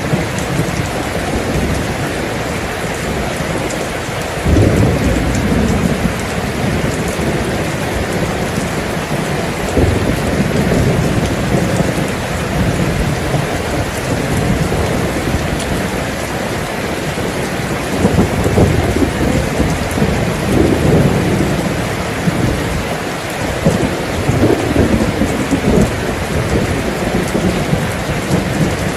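Steady rain falling hard, with rolls of thunder rumbling in and out several times, the deepest about four seconds in, around ten seconds in and again from about eighteen to twenty-one seconds in.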